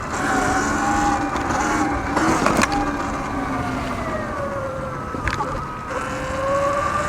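Surron X Light Bee electric dirt bike's motor whining as it rides, its pitch slowly rising and falling with the throttle. Two short knocks sound, one about two and a half seconds in and one a little after five seconds.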